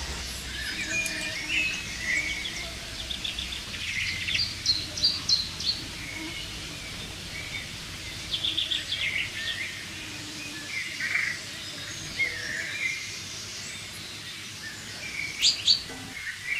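Forest birds singing and calling: scattered short chirps and quick trills, with louder bursts of notes around four to five seconds in and again near the end.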